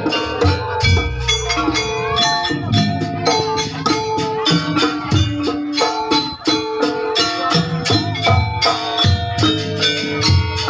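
Javanese gamelan-style music for a jaranan dance: struck metal instruments ringing in quick, busy patterns over repeated low drum beats, with rattling percussion.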